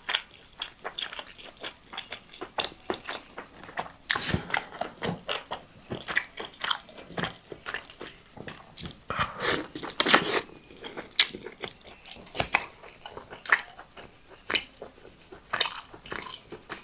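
A person chewing and biting into chicken karahi close to the microphone: irregular mouth clicks and crunching bites, with a few louder bites along the way.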